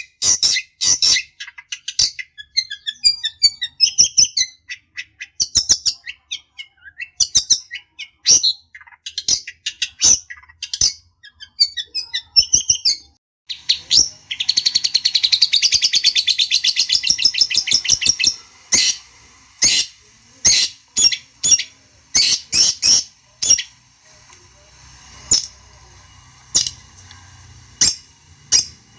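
Long-tailed shrike (cendet) calling in harsh, sharp chattering notes, with a fast rattling run about halfway through and then scattered single calls. It is an agitated lure song of the kind used to provoke rival shrikes into answering.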